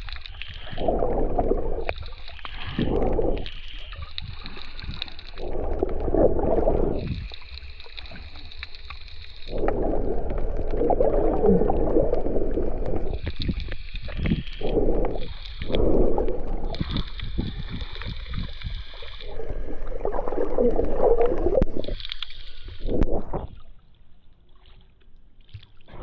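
Snorkelling in the sea: water gurgling and sloshing around the swimmer in repeated bursts a second or two long, quieter near the end.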